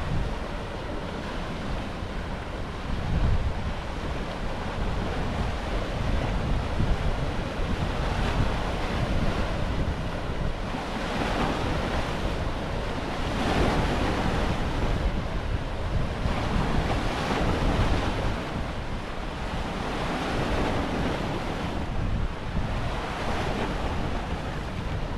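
Ocean surf breaking and washing in, with wind buffeting the microphone in a low rumble. The roar of the waves swells and eases every few seconds.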